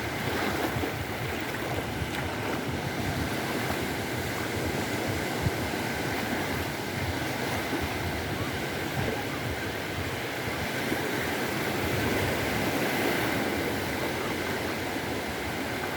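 Mediterranean surf washing onto the shore: a steady rush of waves that swells slightly about three-quarters of the way through.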